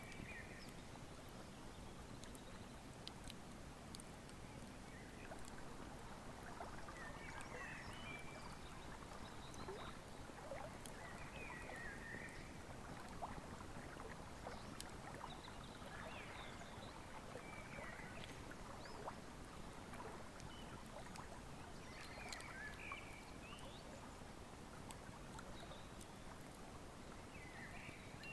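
Wood fire crackling with sparse small pops over the steady rush of a flowing river, while a bird gives short chirps every few seconds.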